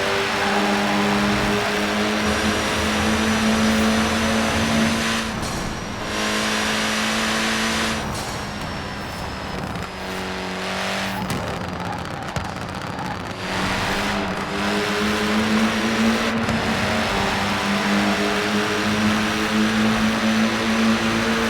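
Datsun 510's engine running at a steady speed, easing off slightly and getting a little quieter for a few seconds around the middle before settling back.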